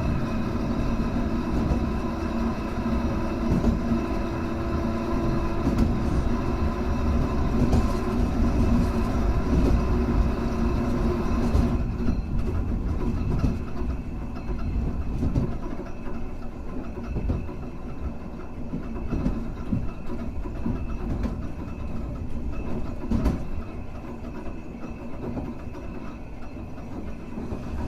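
Hankai Tramway car 351 running along the line: a steady hum with wheels clattering over the rail joints. About halfway through, the higher-pitched tones cut off and the running sound gets quieter.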